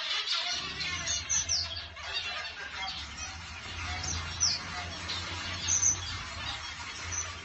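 Zebra finches calling: short, high chirps at irregular intervals, over a steady low hum.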